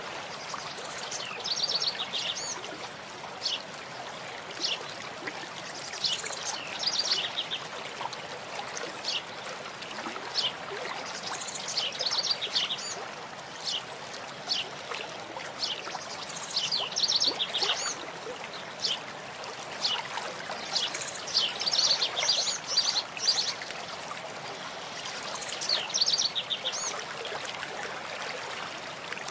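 A stream running steadily, with songbirds singing short trilled phrases that recur every few seconds.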